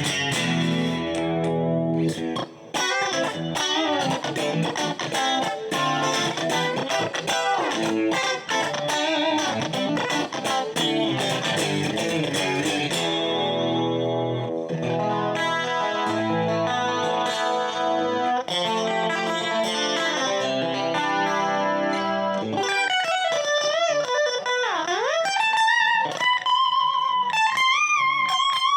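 Dimavery ST-312BK electric guitar played with a clean tone: fast picked runs first, then chords and single notes, and in the last few seconds sustained lead notes with vibrato and one deep swoop down in pitch and back up.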